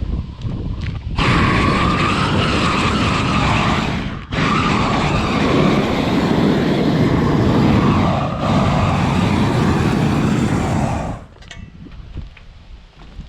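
Torch flame burning steadily for about ten seconds as it chars wood boards, with a brief break about four seconds in and a short dip near eight seconds before it shuts off.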